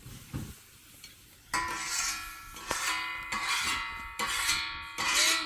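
Metal tray being struck repeatedly, starting about a second and a half in; each hit clangs and rings on with a bright metallic tone.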